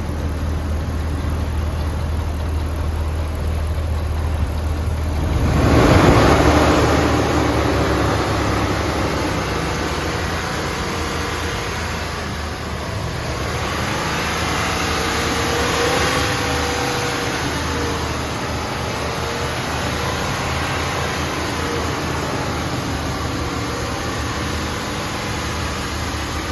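2008 Dodge Ram 1500's 4.7-litre V8 running on a run test. It idles steadily, is revved sharply about six seconds in and settles back, then rises again more gently around sixteen seconds before returning to a steady idle.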